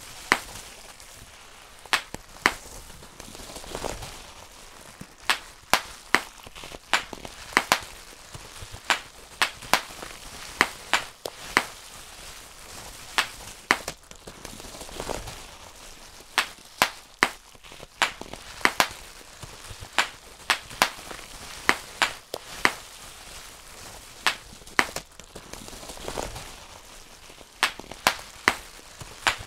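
Bubble wrap being popped by hand: sharp, irregular pops, a few a second and often two or three in quick succession. Softer, longer swells of noise come now and then between them.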